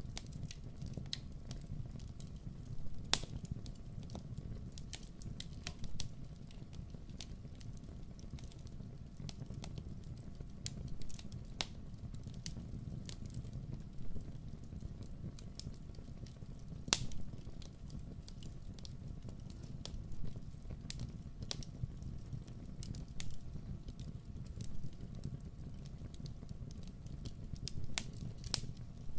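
Fire burning in a fireplace, crackling with irregular sharp pops over a steady low rumble of the flames; the loudest pops come about three seconds in and again just past the middle.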